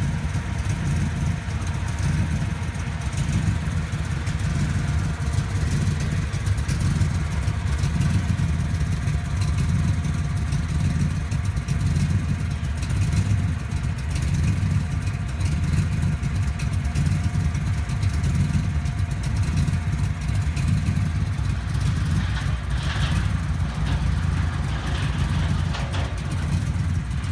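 A 1966 Cobra's V8 engine idling steadily.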